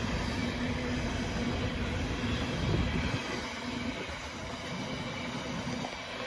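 Intermodal freight train's loaded container wagons rolling past: a steady rumble of wheels on the rails.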